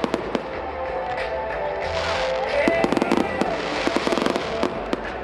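Fireworks going off: a quick run of sharp bangs with swells of crackling, over music playing throughout.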